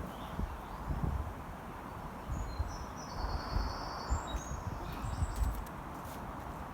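A bird chirping in short, high notes, about two to three seconds in and again around five seconds in, over a steady low rumble.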